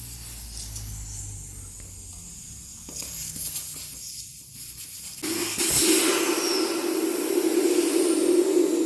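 Air hissing out of a motorcycle tyre's valve as the tyre is deflated ahead of breaking the bead. It starts softly about three seconds in and becomes loud and steady from about five seconds.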